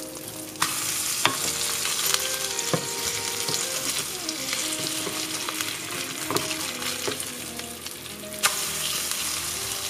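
Vegan fried eggs sizzling in hot oil in a frying pan as they are flipped. The sizzle grows louder about half a second in and eases off near the end, with a few light knocks against the pan.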